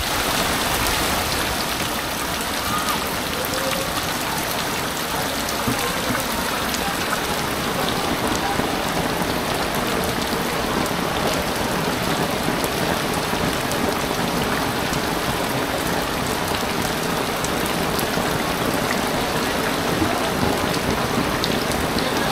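Heavy rain falling steadily onto a flooded street, a dense, even hiss of drops hitting the floodwater.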